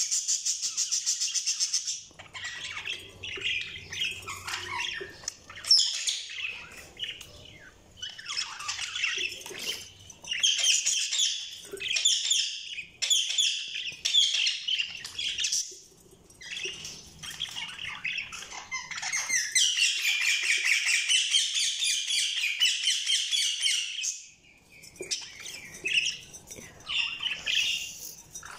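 Budgies (budgerigars) chirping, warbling and squawking in quick, broken phrases, with a long unbroken stretch of rapid chatter in the later part.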